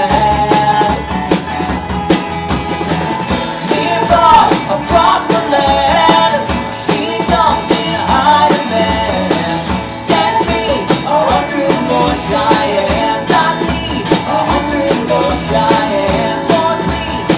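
Small rock band playing live: guitars, bass guitar and drums, with sung vocals, steady and loud throughout.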